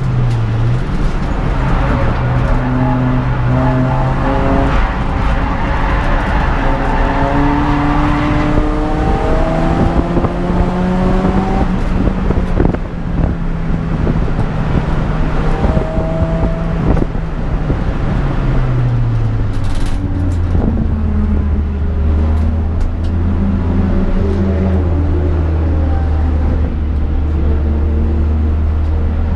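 Peugeot 206 GTI's four-cylinder engine under way, its pitch climbing and dropping through gear changes, then settling to a steady low drone about two-thirds of the way through.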